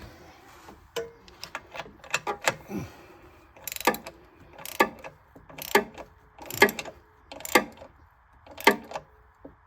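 Hand ratchet wrench clicking as a bolt is tightened: a few scattered metal clicks, then about six ratcheting strokes, roughly one a second.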